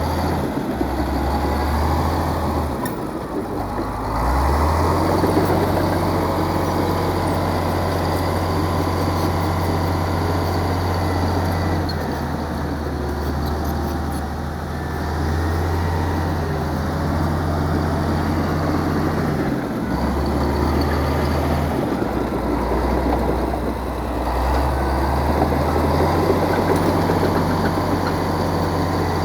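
Heavy diesel engine of earthmoving machinery running, its low drone shifting up and down in speed several times.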